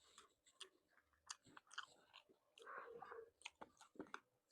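A person chewing seafood close to the microphone: faint, irregular clicks and smacks of mouth and teeth, with a louder, longer stretch of chewing a little past halfway.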